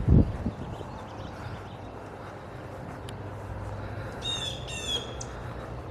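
A wild bird calls twice in quick succession about four seconds in, each call a short run of rapid high notes, followed by one brief note. There is a low thump right at the start.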